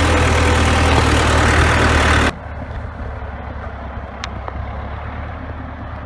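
The CASE 580B backhoe's four-cylinder diesel engine running, loud and steady, then abruptly much quieter a little over two seconds in, carrying on at a lower, steadier level.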